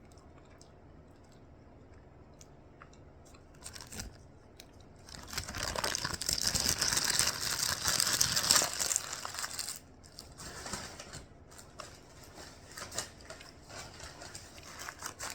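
Paper food wrapper crinkling and tearing, loudest for about four seconds in the middle, with lighter rustles and crackles after.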